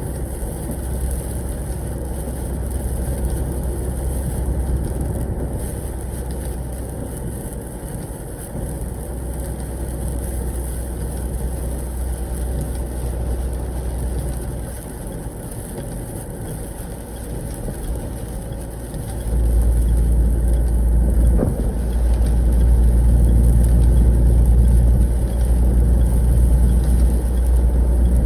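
Truck cab noise while driving: a steady low rumble of engine and road, heard inside the cab, which grows clearly louder about two-thirds of the way through.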